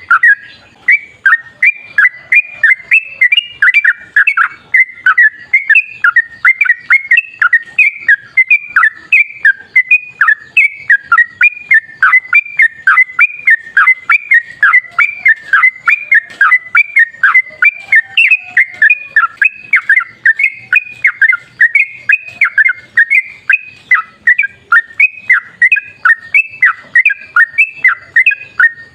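Yellow-vented bulbul (trucukan) singing a long, non-stop run of quick, clear, repeated notes, about three a second, that cuts off suddenly near the end. This is the long 'ropel' song of a bird in full voice.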